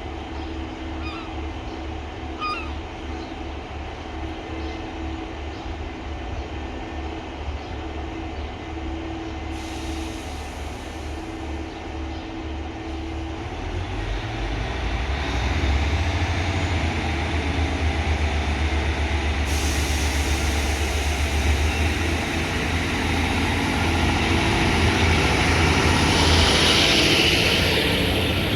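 A diesel multiple unit's engine running with a low throb that grows louder about halfway through. A hiss swells near the end.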